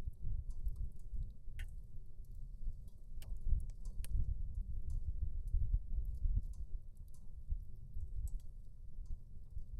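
Wood fire burning in a Soomloom VistaV portable titanium fireplace, crackling with scattered sharp pops over a steady low rumble.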